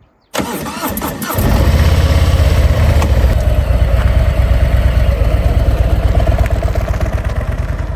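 Harley-Davidson V-twin motorcycle engine cranked on its starter for about a second, then catching and idling with a loud, fast, low pulsing.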